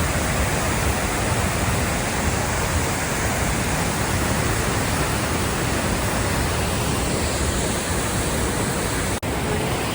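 Waterfall rushing: a steady, full roar of heavy falling water, broken by a momentary gap about nine seconds in.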